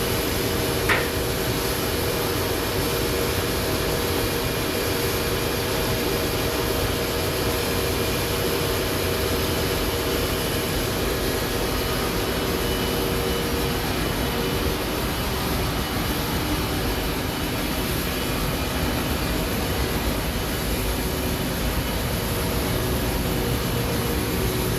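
Sawmill running steadily as it cuts through a log: an even mechanical noise with a few held tones, and one sharp click about a second in.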